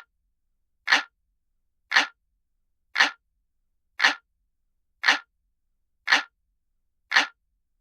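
Analog clock ticking sound effect, one sharp tick a second, each tick alike, steady and even.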